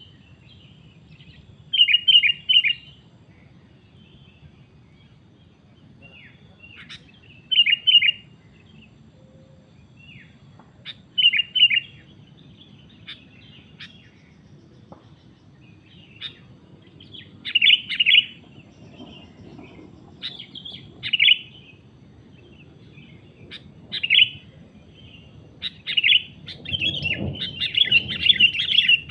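Sooty-headed bulbuls (kutilang) calling in short bursts of rapid chattering notes every few seconds. The bursts grow into near-continuous chattering near the end.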